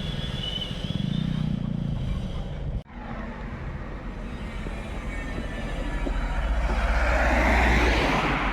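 Eicher tractor's diesel engine running, with a sudden break about three seconds in, then growing louder towards the end.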